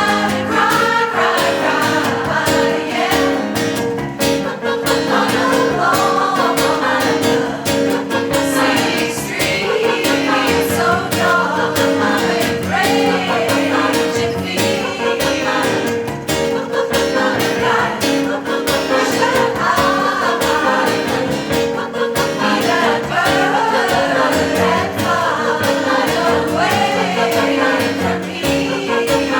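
Amateur adult choir singing in a live performance: moving melody lines over steadily held lower notes throughout.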